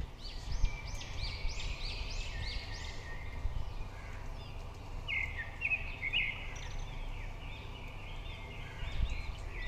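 Birds calling: runs of short, quickly repeated high chirps, over a steady low background rumble.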